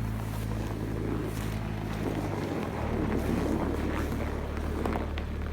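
BMW 335i's turbocharged straight-six running at low, steady revs, its note shifting a little about halfway through, with a rough hiss alongside.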